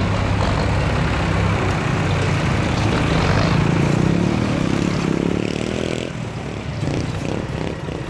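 Tractor engine running hard, its pitch rising for a couple of seconds from about three seconds in, then falling back about six seconds in.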